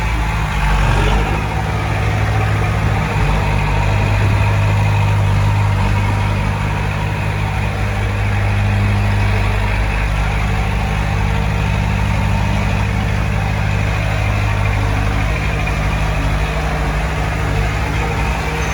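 Heavy diesel engine of earthmoving equipment running steadily, with a deep, even drone.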